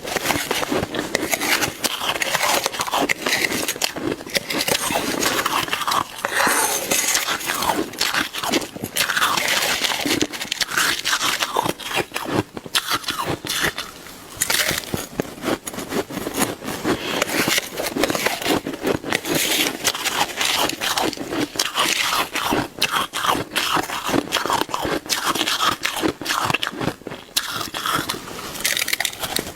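Shaved ice being bitten and chewed fast close to the microphone: a dense, unbroken run of icy crunches and scrapes.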